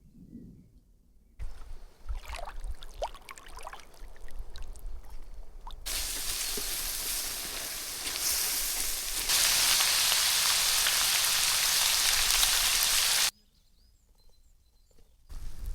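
Meat frying in a sac, a wide iron pan: first light sizzling with crackles, then a loud, even sizzle that stops abruptly about two seconds before the end.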